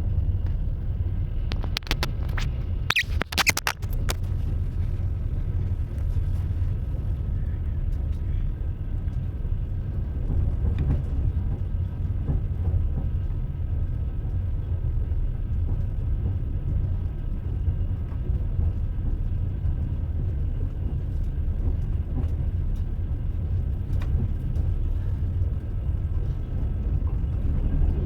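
Train running along the track: a steady low rumble of the wheels on the rails, with a few sharp knocks about two to four seconds in.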